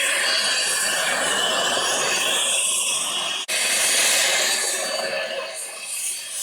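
Eurocopter EC135 helicopter running close by, a steady loud turbine hiss and rotor rush. It cuts out for an instant about three and a half seconds in.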